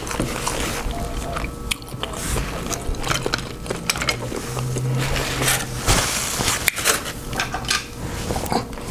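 Close-miked eating from a seafood boil: wet chewing and smacking with irregular clicks and crackles, and a brief low hum about halfway through.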